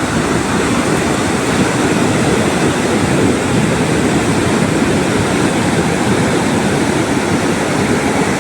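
Strong ocean surf, a steady, loud rushing wash of breaking waves.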